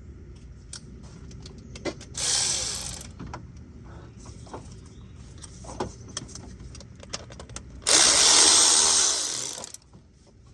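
Handheld power tool run in two bursts, a short one of under a second and a louder one of about two seconds, with small clicks and knocks of tools and parts between them.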